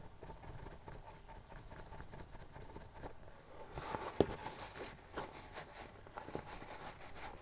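Faint handling noise of a small plastic action figure being worked by hand over tissue: small clicks and creaks of its joints, a few tiny squeaks, and soft rustling of the tissue from about four seconds in.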